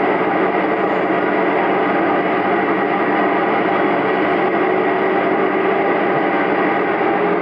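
Steady running noise of a KiHa 47 diesel railcar heard from inside the cabin: a constant rush of wheels on rail and engine hum while the train travels at speed.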